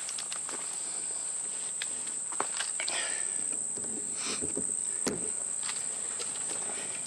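Steady, unbroken high-pitched insect song, the late-summer trill of crickets or katydids, with scattered footsteps and crunches of someone walking along a trail.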